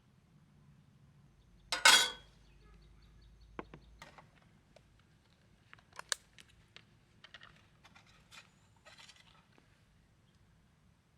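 Camp cookware and utensils being handled: one loud metallic clatter with a short ring about two seconds in, then a few lighter clinks and taps.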